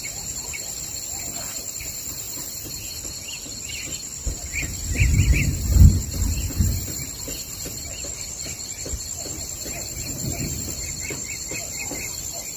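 Forest ambience: a steady high-pitched insect drone with scattered birdsong chirps. A loud low rumble comes in about a third of the way through and fades over a couple of seconds.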